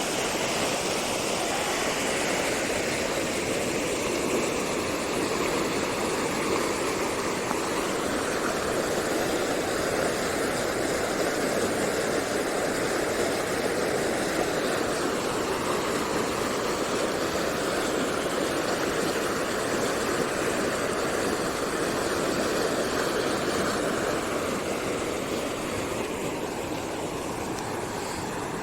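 Water rushing steadily down a stream channel swollen with rain runoff, a constant dense rush that eases slightly near the end.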